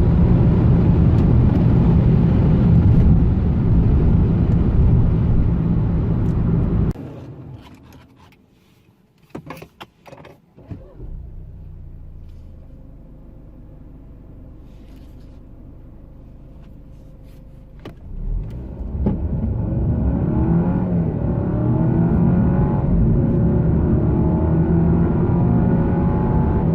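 Alfa Romeo Giulia's 2.0-litre turbo four-cylinder pulling hard at speed with heavy road noise, then suddenly backing off about a quarter of the way in. A few sharp clicks and a quiet stretch of the engine running low follow. In the second half it goes to full throttle again, its pitch rising and dropping back as the automatic shifts up.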